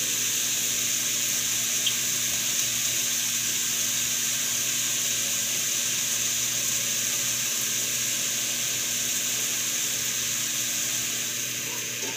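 Sliced pork lung and heart sautéing in a hot wok: a steady, even sizzle.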